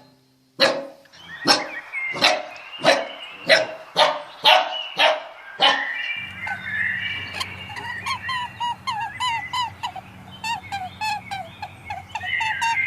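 A dog barking repeatedly, about one bark every 0.7 seconds, for the first six seconds. Then many short bird chirps over a low steady hum.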